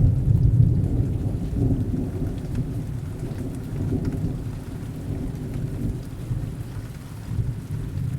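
Heavy rain with a deep rolling rumble of distant thunder, loudest in the first second or so and slowly dying away.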